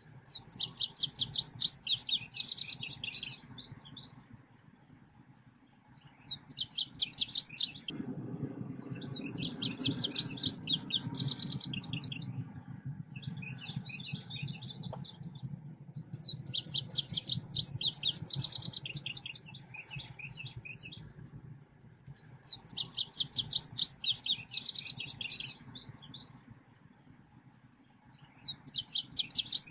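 Recorded song of the 'selendang biru' bird, used as a lure and tutor call: rapid, high, trilling chirp phrases, each lasting two to three seconds, repeating about five times with short pauses, over a faint low hum.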